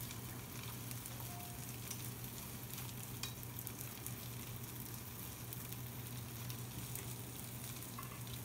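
Floured chicken breast pieces sizzling in a frying pan: a steady, even frying hiss. A few light clicks come as the pieces are turned over with chopsticks.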